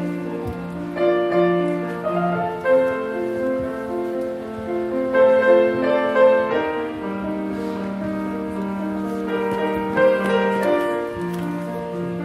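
Piano playing a slow instrumental passage of held chords over a sustained bass note, with no singing.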